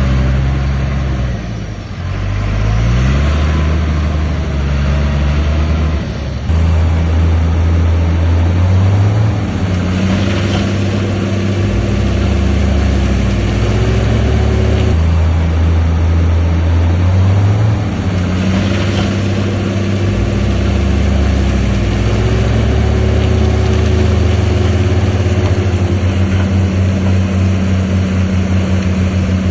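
Heavy diesel engine of earthmoving machinery running under load. Its pitch climbs a few seconds in, steps up again shortly after, and then holds with small rises and falls as the throttle changes.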